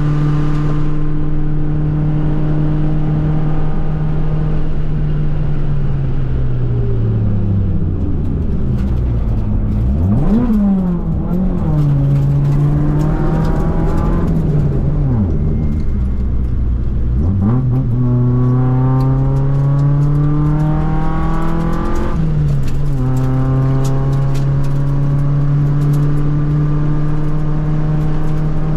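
Toyota 4A-GE 20-valve naturally aspirated 1.6-litre four-cylinder in an AE101 Corolla, heard from inside the cabin under hard track driving. It holds high revs, then the revs fall under braking with several quick jumps. It runs low for a few seconds and climbs again through the revs with one brief drop at a gear change, then holds high revs once more.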